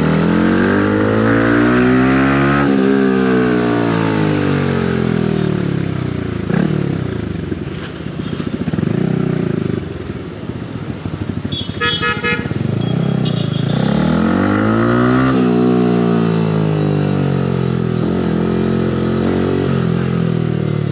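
Yamaha R15 V3's single-cylinder engine with an aftermarket exhaust, accelerating hard and then dropping back on engine braking, twice. A horn beeps briefly in the middle.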